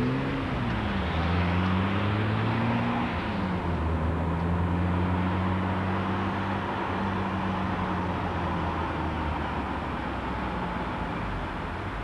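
Car engine accelerating through the gears: its pitch rises, drops at a gear change about a second in, rises again and drops at a second change about three seconds in, then settles to a steady cruising hum over tyre and road noise.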